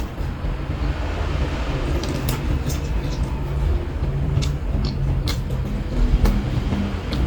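Close-miked eating: chewing with sharp, crisp clicks every second or so, over a steady low rumble.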